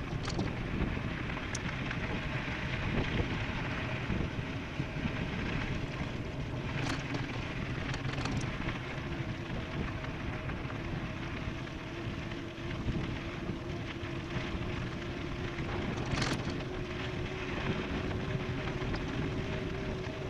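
Wind rushing over the microphone and tyre roar from an e-bike riding at speed, with a faint steady hum under it and a few brief clicks or rattles.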